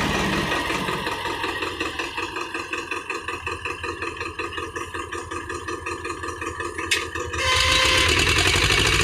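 Diesel tractor engine running with a rhythmic pulsing, a few beats a second. A sharp click comes about seven seconds in, and then the sound grows louder and more even.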